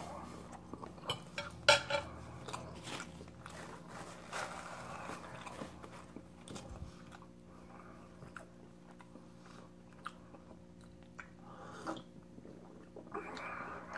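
Close-up eating sounds: chewing a mouthful of chicken alfredo pasta and corn, with wet mouth clicks and smacks scattered throughout and a louder click about two seconds in. Near the end, sips and swallows from a glass.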